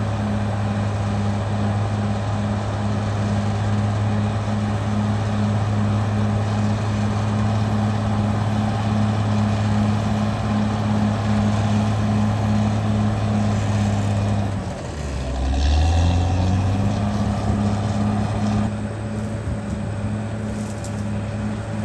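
Caterpillar D6R XL bulldozer's diesel engine running steadily. About fifteen seconds in, its speed dips briefly and picks up again, with a short hiss as it recovers.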